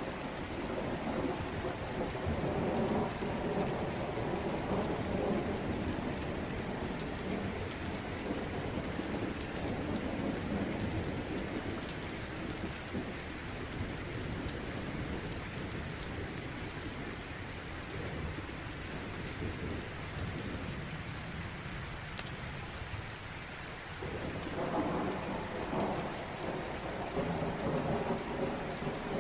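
Steady heavy rain with low rolling thunder that swells in the first half and rises again near the end, with scattered sharp ticks and crackles over the top.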